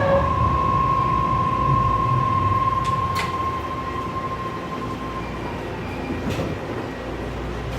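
BART train running and slowing: its cabin rumble gradually quietens while a steady high whine holds and then fades out about five seconds in, with a couple of sharp clicks.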